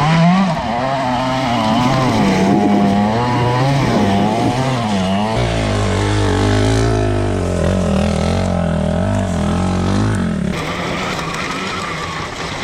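Gas dirt bike engines revving, their pitch rising and falling repeatedly. A second, deeper engine note joins about five seconds in, and both cut off about ten and a half seconds in.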